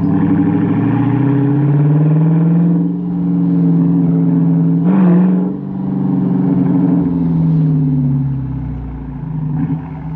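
Chrysler 300's Hemi V8 through Carven R mufflers with the resonator deleted, running under throttle. The pitch climbs at the start, holds, jumps in a short rev about halfway, then eases off and falls near the end.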